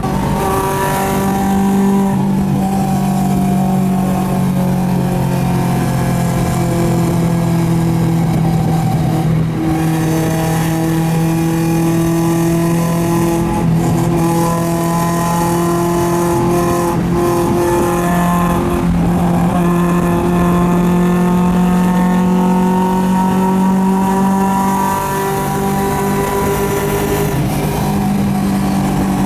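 A car engine running at a fairly steady speed on a track lap, a continuous drone whose pitch drifts slowly up and down as the revs change.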